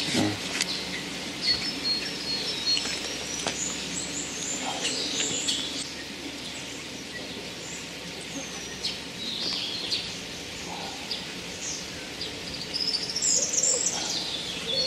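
Several small birds chirping and singing, short calls overlapping and repeating, busiest near the end.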